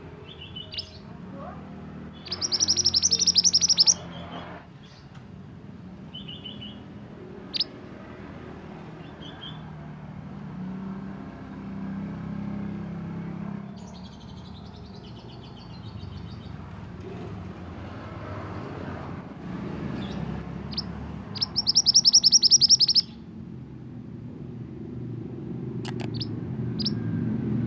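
A mantenan songbird singing. It gives two loud, rapid chattering trills, one a couple of seconds in and one about three-quarters through, with short high chirps and warbling notes in between. A steady low hum runs underneath.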